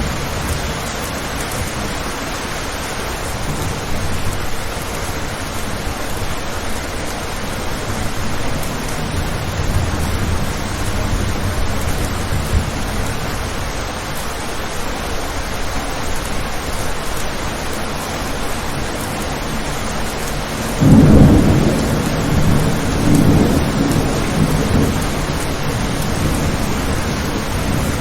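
Steady rain pattering on a window, with a sudden clap of thunder about three-quarters of the way through that rumbles on in low rolling swells for several seconds.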